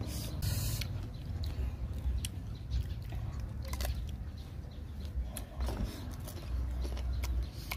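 Biting into and chewing a small raw green mango, with a few short, crisp crunches spaced out over several seconds.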